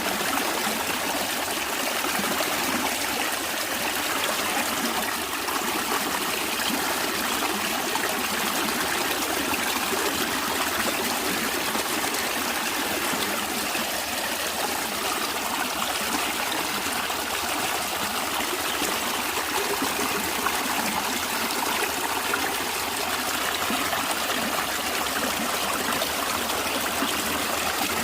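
A stream of water flowing and trickling over stones, steady and unbroken.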